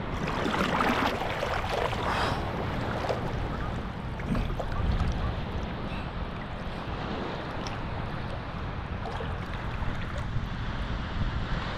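Small sea waves washing on the shore, with wind rumbling on the microphone; the wash is louder in the first couple of seconds.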